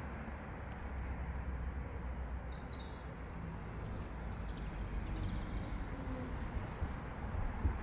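Steady outdoor background noise with a low rumble, over which a few short, high bird chirps sound about two and a half seconds in, again around four seconds and once more past five seconds.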